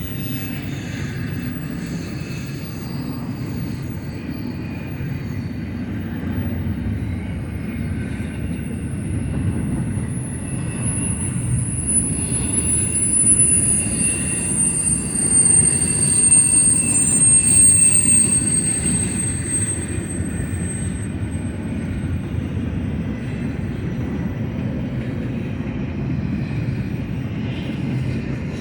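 Double-stack intermodal freight train cars rolling past with a steady low rumble. A thin, high wheel squeal comes in near the middle, sliding slowly down in pitch, then fades away.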